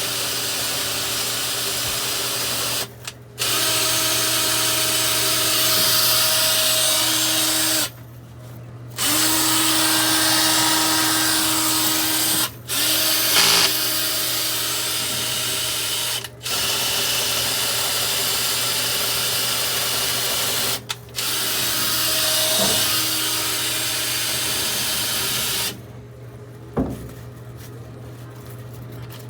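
Power drill spinning a rotary dryer-vent cleaning brush. It runs in long stretches with several brief stops and restarts, then stops a few seconds before the end.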